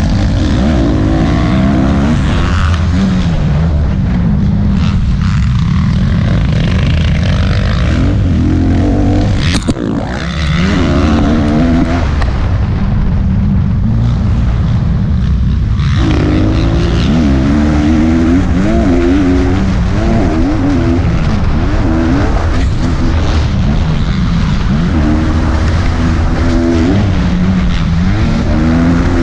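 Motocross bike engine revving hard through the gears, its pitch climbing and dropping again and again. Just under ten seconds in there is a sharp knock as the engine note briefly drops. From about twelve to sixteen seconds it runs lower and duller, then picks up sharply and revs on.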